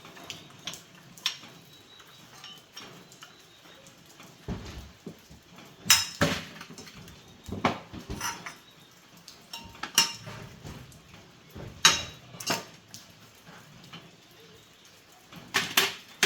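Sharp metallic clinks and knocks of hand tools on metal parts, coming every couple of seconds with softer handling noise between them.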